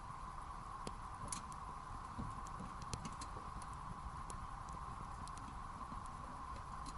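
Campfire of wood burning in a fire pit, crackling with irregular sharp pops, a few louder ones about a second in and near the middle, over a steady high-pitched drone.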